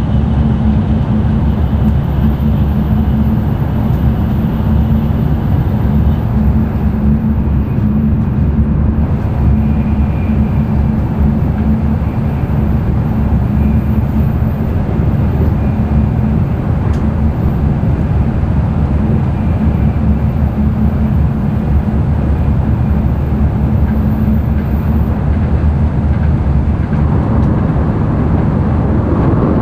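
Running noise of an N700-series Tokaido Shinkansen at speed, heard inside the passenger cabin: a steady low rumble with a constant hum, swelling slightly near the end.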